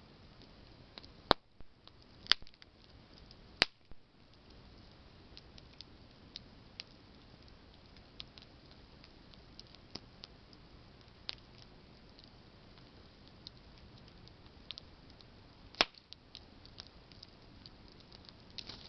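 Campfire of burning branches crackling: scattered small ticks over a soft hiss, with four sharp pops, three in the first four seconds and one near the end.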